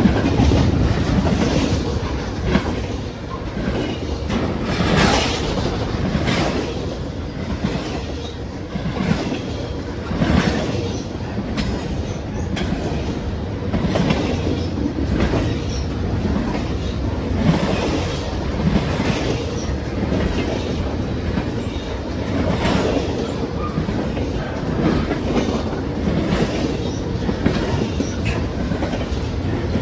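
Freight train cars rolling past on the line, their steel wheels clacking over the rail joints about once a second over a steady rumble.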